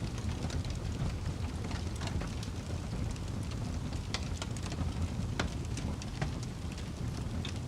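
Wood fire burning in a fireplace, crackling with frequent irregular pops and snaps over a low steady rumble.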